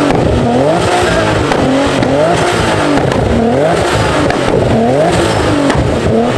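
Car engine revving hard over and over, its pitch climbing and dropping in quick succession.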